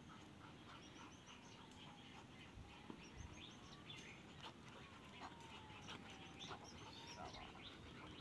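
Faint background of small birds chirping, many short quick calls, with a faint tone that slowly dips and rises twice underneath.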